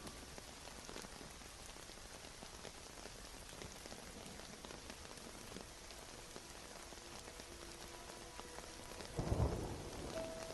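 Steady rain, with a low rumble of thunder about nine seconds in, the loudest moment.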